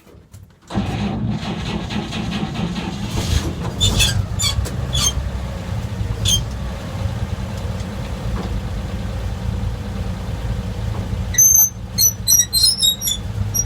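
1947 GMC truck engine starting about a second in and then running steadily, with short high-pitched squeaks, several of them near the end: quite the squeak.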